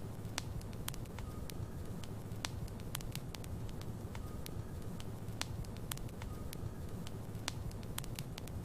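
Logs burning in a fireplace: a steady low rumble of flame under sharp, irregular crackles and pops, a few each second.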